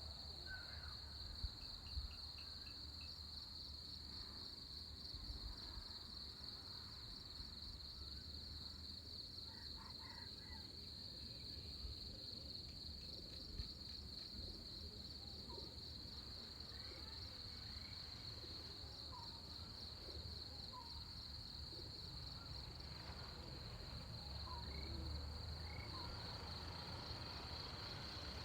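Pre-dawn insect chorus: a continuous high, faintly pulsing trill of crickets or similar insects, with scattered short bird chirps and a low rumble underneath.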